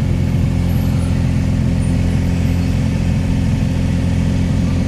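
Steady, low engine and road drone of a moving motor vehicle, heard while riding in it.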